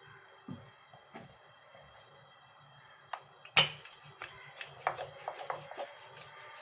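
Rolling pin knocking and clicking sparsely as balls of dough are rolled out into small flat rounds, with one sharper knock about three and a half seconds in and quicker small clicks after it.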